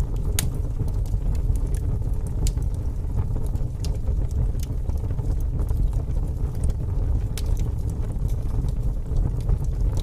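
Fire burning in an open fireplace: a steady low rumble of flames with scattered sharp crackles and pops at irregular intervals.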